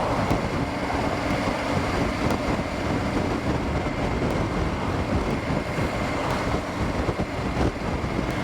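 Triumph Tiger 900 GT Pro motorcycle at a steady cruise: its three-cylinder engine running evenly under a constant wash of wind and road noise, with no change in revs.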